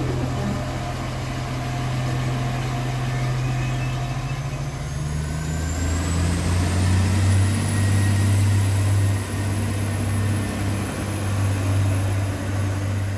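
Passenger train at the station: a steady low hum from its traction equipment, which shifts down a little and grows louder about halfway through, with a high whine that rises in pitch over a few seconds and then holds.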